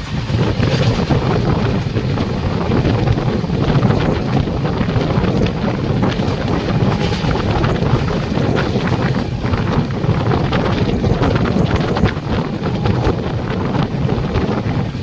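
A train running, its low rumble heard under heavy wind buffeting on the microphone, with scattered short clicks.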